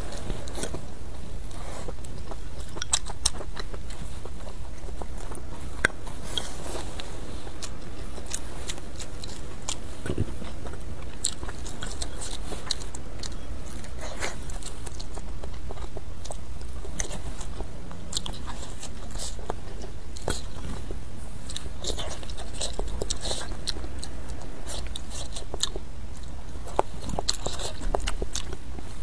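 Close-miked eating: a person chewing and biting mouthfuls of rice and spicy hotpot, with many short, sharp clicks throughout over a steady low hum.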